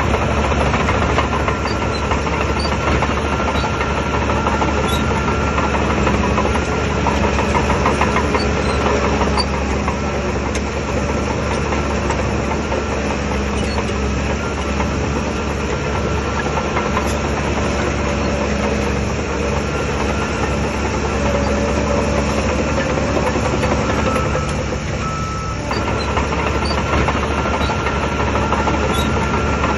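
Heavy diesel engine of a Shantui DH17 bulldozer running steadily and loudly, easing briefly near the end.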